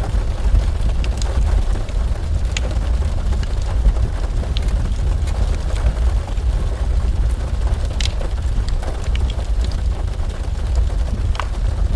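Heavy rain: a steady dense rush with a deep low rumble underneath and scattered sharp drip ticks.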